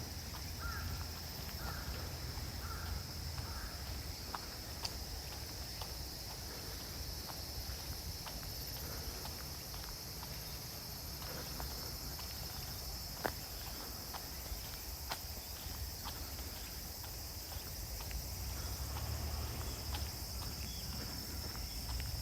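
Insects trilling steadily in the woods, with footsteps crunching and clicking along a forest path.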